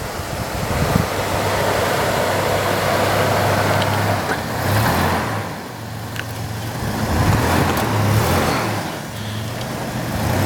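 Toyota 4Runner's engine running hard under load, swelling twice, while its wheels spin in deep snow and it fails to make headway.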